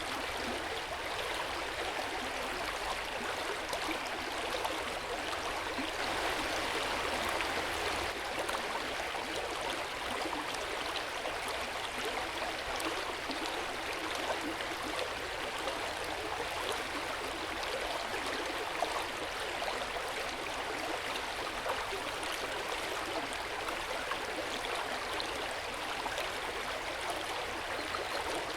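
Hot-spring water flowing and splashing steadily into an open-air bath, a continuous gurgling trickle.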